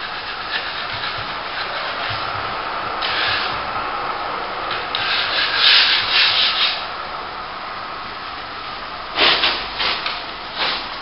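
Plastering trowel scraping and rubbing across a top coat of plaster on a plasterboard repair: a steady rasp with louder strokes about halfway through and again near the end.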